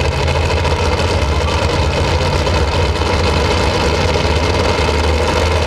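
Pulling truck's engine running loud and steady, a deep low drone with a dense, rough noise over it.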